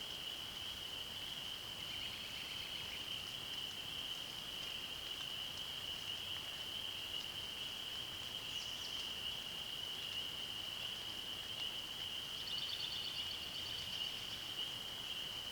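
A steady, high-pitched animal chorus drones without a break. Over it come a few brief bird calls: a short trill about two seconds in, a quick call near the middle, and a run of rapid high notes starting about twelve seconds in.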